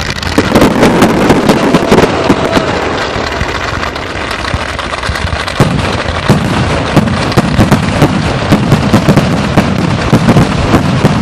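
Fireworks going off in quick succession: dense crackling and sharp bangs, heavier and more continuous from about halfway through.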